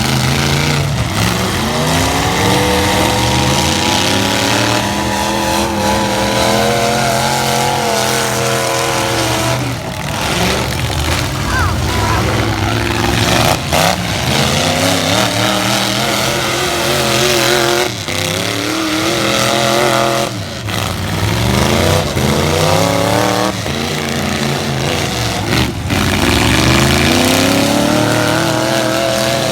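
Several light trucks' engines revving hard and falling back over and over during a demolition derby, with a few sharp bangs of metal-on-metal collisions.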